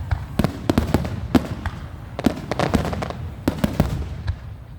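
Fireworks going off: a rapid, irregular series of sharp bangs and crackles over a low rumble, thickest in three clusters.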